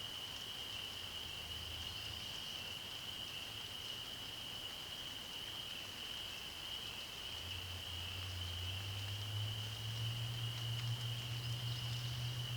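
A steady, high-pitched chorus of calling frogs runs unbroken throughout. A low hum comes in about two-thirds of the way through and grows louder.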